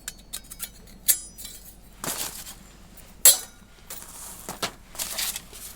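Thin titanium fire-stand plates clinking and knocking against each other as they are handled, in scattered sharp metallic taps. One rings briefly about a second in, and the loudest knock comes about three seconds in.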